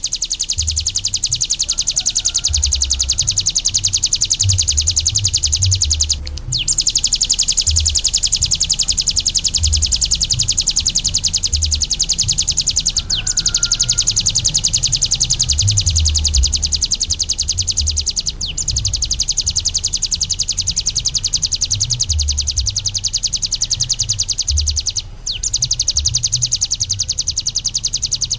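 Ciblek gunung, a prinia, singing a long nonstop run of very rapid high-pitched notes: the drill-like 'ngebren' song. The run breaks off only for brief pauses about every six seconds. A low, uneven rumble sits underneath.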